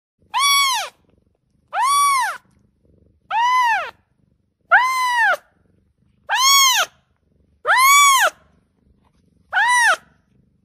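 Cat meowing: seven separate meows at about one every one and a half seconds, each rising and then falling in pitch.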